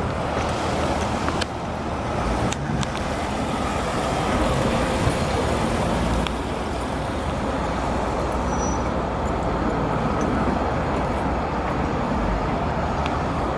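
Car engines running, a steady rumble with traffic-like noise, with a few faint sharp ticks.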